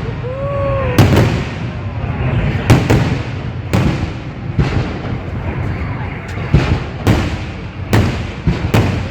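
Fireworks salute shells bursting overhead: about ten sharp bangs at uneven intervals, some in quick pairs, over a continuous low rumble of further bursts.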